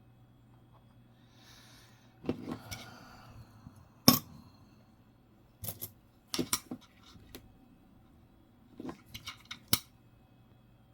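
Coins being handled: a string of sharp, irregular clicks and light clinks as dimes are picked up and set down, some in quick pairs, with a brief sliding rustle about two seconds in.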